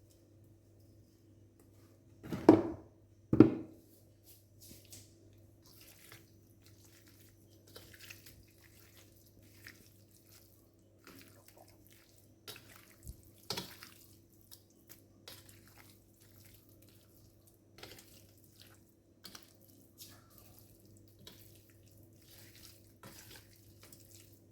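Kitchen handling sounds while seasoning raw chicken: two loud knocks about two and a half and three and a half seconds in, then scattered faint clicks and light wet touches, over a faint steady hum.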